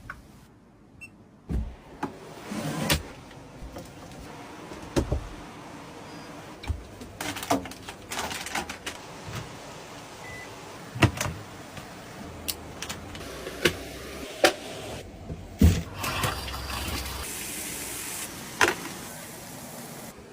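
A series of irregular sharp knocks and clatters, some loud and some faint, over a steady background noise.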